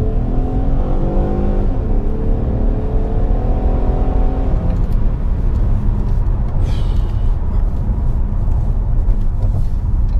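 Ford Taurus SHO's 3.5-litre twin-turbo EcoBoost V6 heard from inside the cabin while driving. The engine note climbs slightly and holds for about five seconds, then gives way to steady road and tyre rumble.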